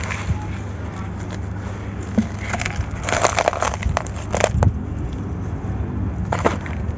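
Dry grey sand-cement chunks being crushed and crumbled, with gritty crackling crunches that come in clusters, thickest about midway and again near the end. A steady low hum runs underneath.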